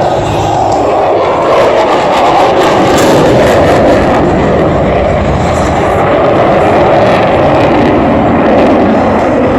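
Jet noise from an F-22 Raptor's twin Pratt & Whitney F119 turbofan engines as the fighter flies its air-show demonstration: loud and continuous, the pitch of the noise shifting slowly.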